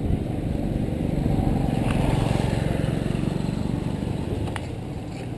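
A motor vehicle, most like a motorcycle, passes on the street: a low rumble that swells for a couple of seconds and then fades, heard over steady low road and wind noise while cycling.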